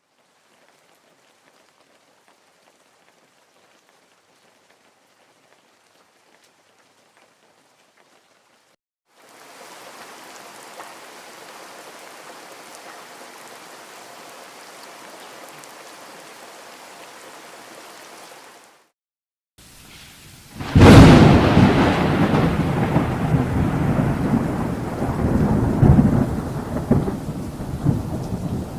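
Rain falling steadily, faint at first and then heavier; about two-thirds of the way in a sudden loud thunderclap breaks and rolls on into a long rumble that slowly fades under the rain.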